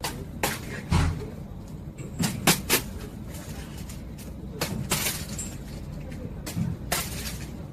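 A steady low rumble with a string of sharp clicks and knocks scattered through it, the loudest about a second in and about two and a half seconds in.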